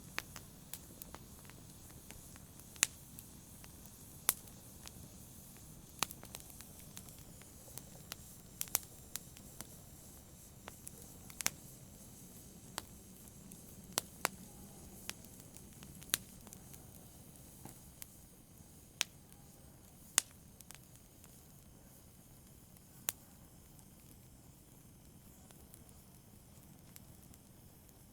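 Wood fire crackling in a fireplace: irregular sharp pops and snaps over a low, steady rushing of the flames. The pops come every second or so, thinning out in the last several seconds.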